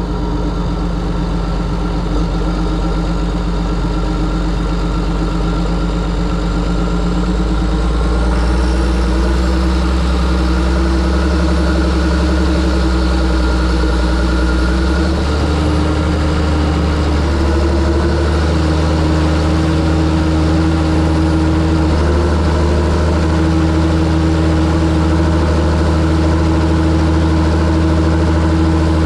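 John Deere 7730 tractor's six-cylinder diesel engine running steadily, its note changing slightly about eight seconds in and again about halfway through.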